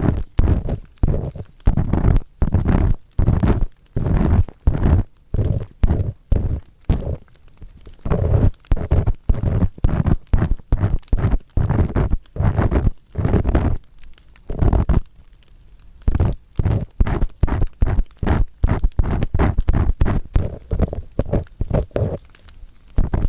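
Earpick scraping firmly inside the ear of a 3Dio binaural dummy-head microphone, in quick repeated strokes of about two to three a second, each a deep, close scratchy rub. The strokes ease off briefly about two-thirds of the way through, then resume.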